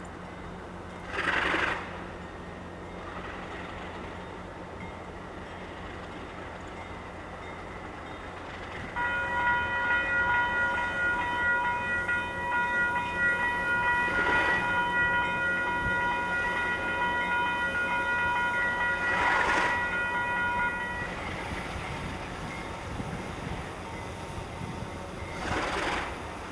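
Diesel locomotive's multi-note air horn sounding one long held blast of about twelve seconds, starting about a third of the way in, over a steady low rumble. A few brief bursts of noise come before, during and after the blast.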